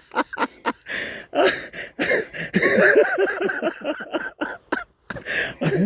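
A tired hiker's breathless vocal sounds: a few short rapid breaths, then coughing, gasping and voice-like noises from the effort of a steep climb.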